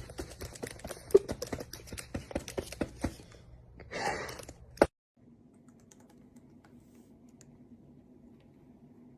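A pet bird's beak pecking and chewing at food, making fast, irregular clicking and tapping for about three seconds. It is followed by a brief rushing noise and one sharp click, then only a faint steady hum.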